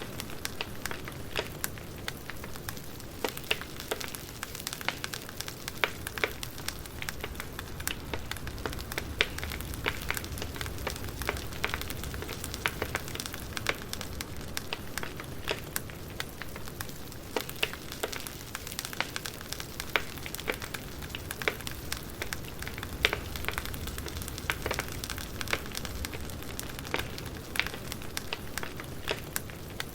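Wood fire crackling, with a steady low rumble and frequent sharp, irregular pops and snaps.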